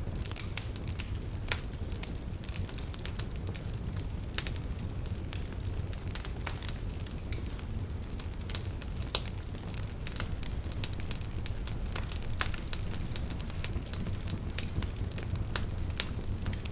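Campfire burning steadily: a low rumble of the flames with frequent irregular crackles and pops of burning wood.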